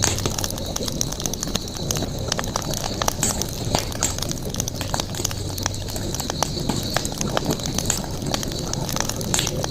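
Campfire burning, the wood crackling with frequent irregular sharp pops over a steady high-pitched hiss.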